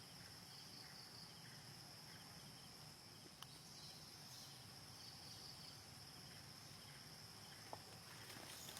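Faint, steady high-pitched drone of insects such as crickets or cicadas, with a few soft clicks in the second half.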